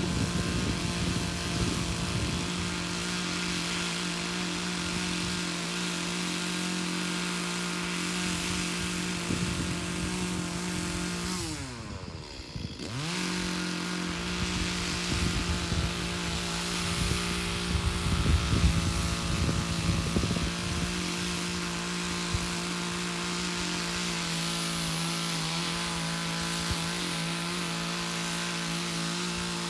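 Two-stroke chainsaw running at high speed in a steady note as it cuts raw logs. About twelve seconds in, the engine speed drops away sharply for a moment and then climbs back to full speed.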